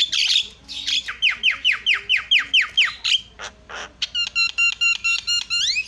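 Javan myna (jalak kebo) singing: harsh squawks, then a run of about ten quick falling whistles, another harsh call, and a fast string of repeated notes that ends in a rising whistle.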